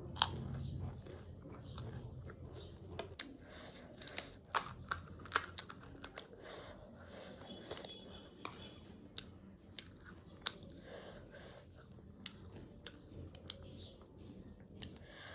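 A person chewing crunchy snack food close to the microphone, with many sharp, irregular crunches, thickest a few seconds in.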